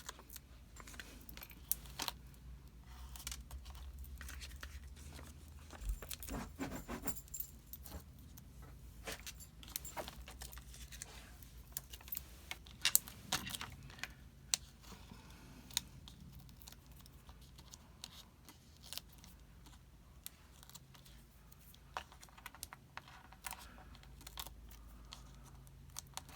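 Scattered light clicks, jingles and scratching: a pet scratching at the carpet while chasing its shadow, mixed with small handling noises from card-making supplies.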